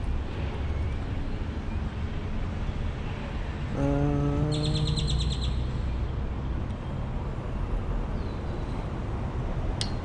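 Steady low outdoor rumble with a short, fast bird trill of repeated high chirps about four and a half seconds in, just after a brief low hum.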